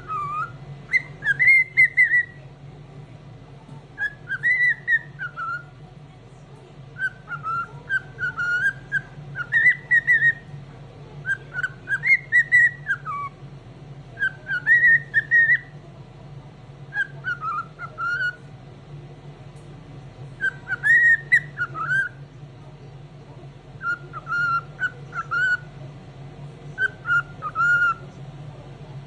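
Pet cockatiel singing a whistled song: short warbling phrases that rise and fall, repeated every couple of seconds, over a steady low hum. This is the cheerful singing of a bird in a very good mood.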